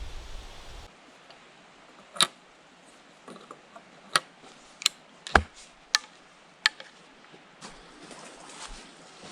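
About six sharp clicks or snaps at irregular spacing, with quiet between them.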